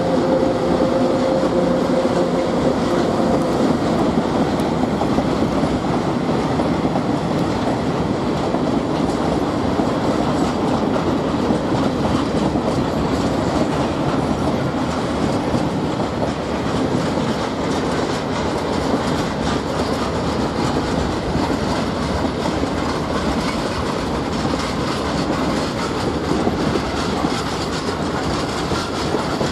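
SN61 diesel railcar running on the track, its wheels clicking over the rail joints under a loud, steady running noise. A low humming tone fades out in the first few seconds.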